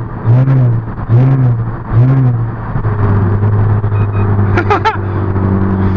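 Car engine and road noise heard from inside a moving car: a few evenly spaced swells in pitch early on, then a steady low engine hum from about three seconds in.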